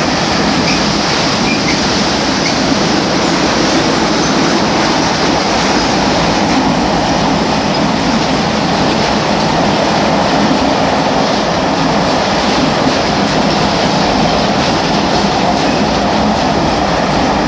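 Empty freight train hauled by a Class 92 electric locomotive running past close by: a loud, steady noise of wagon wheels on the rails that goes on without a break.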